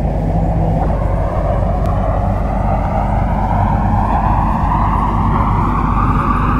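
MTR Kwun Tong line C-Train accelerating out of a station: the traction motors' whine rises steadily in pitch over a steady rumble of wheels on track.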